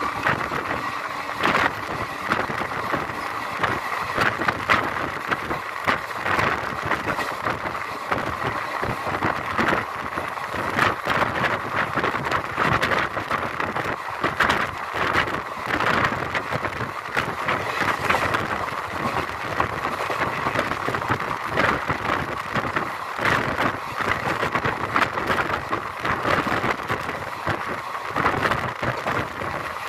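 Janmabhoomi Express passenger train running along the track, heard from inside a coach: a steady running noise with continual clatter and rattling of wheels and coach fittings.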